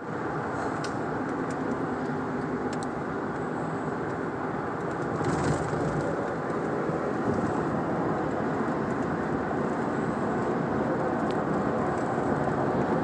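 Steady road and engine noise of a moving vehicle, heard from inside the cabin.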